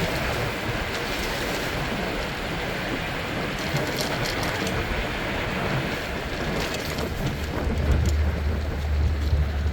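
Steady rush of wind on the microphone while riding a bicycle. A deeper wind rumble grows stronger about seven and a half seconds in.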